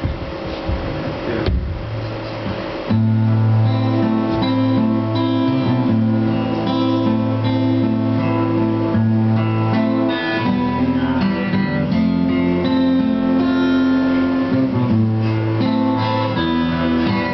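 Acoustic guitar playing the instrumental introduction to a slow lyrical song. It starts quietly, then full chords come in about three seconds in and carry on with changing chords.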